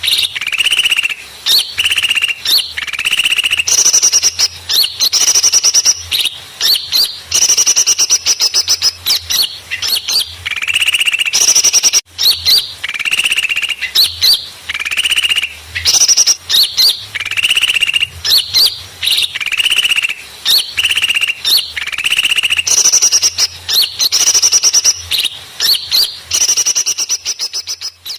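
Bird-lure recording of noisy small birds: loud, rapid chirping and trills in bursts about a second long, one after another. This is the agitated calling used to draw small birds in for trapping.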